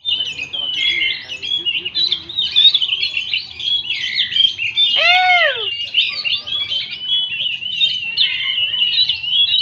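Oriental magpie-robin singing continuously, a rich, fast-changing warble of varied whistled phrases. About halfway through, a short lower-pitched call rises and falls once over the song.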